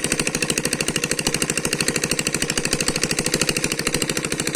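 Small engine running steadily with a fast, even beat and no change in speed.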